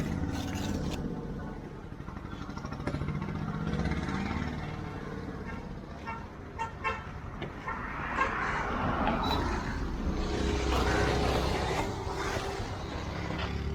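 Road traffic going by: vehicle engines running, with a louder vehicle passing about eight seconds in and a horn sounding for a couple of seconds near the end.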